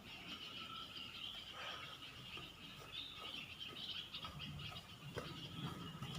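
Faint tropical forest animal chorus: a steady high trilling with scattered short chirps and calls.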